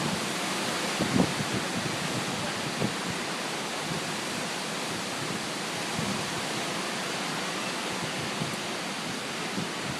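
Hurricane winds blowing hard and steadily through the trees, an even, unbroken rush of noise.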